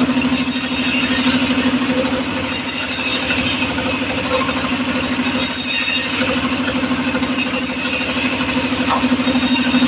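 Homemade engine-driven circular saw machine running steadily, with a pulsing drone and short patches of higher hiss every couple of seconds.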